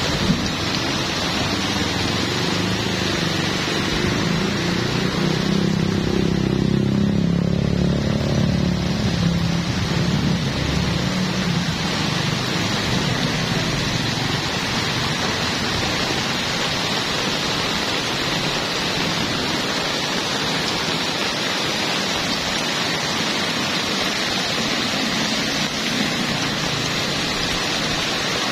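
Heavy rain pouring down steadily, with a low rumble of thunder that swells about four seconds in and fades out by about twelve seconds.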